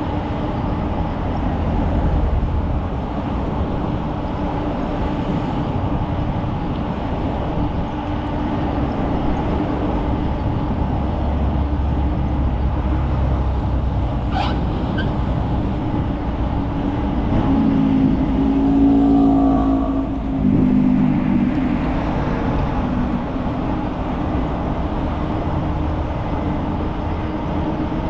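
Steady rumble of a bicycle ride with road traffic noise around it, including a short high squeak about halfway through and a louder pitched swell of a passing vehicle about two-thirds of the way in.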